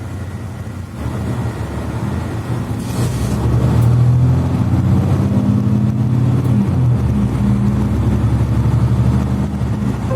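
Diesel engine and Voith automatic gearbox of a Mercedes-Benz Citaro C2 articulated bus under way, heard from inside the passenger cabin. The engine grows louder over the first few seconds, runs steadily, and its note shifts about seven seconds in.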